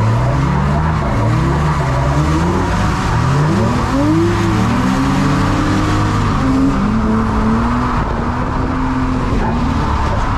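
Drift car engine revving up and falling back again and again as the car slides through a run, with tyres sliding on a wet track.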